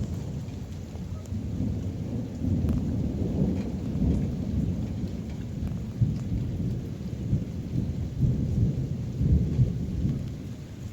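Long rolling thunder over heavy rain: a low, uneven rumble that swells and fades for several seconds and eases near the end.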